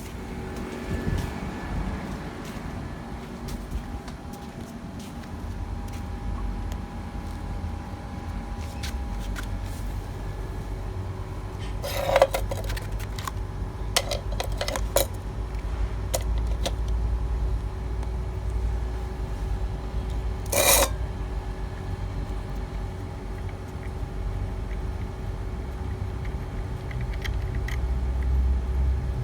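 Metallic clinks and scrapes over a steady low mechanical hum: a cluster of clinks about twelve to fifteen seconds in, and a louder one about twenty seconds in.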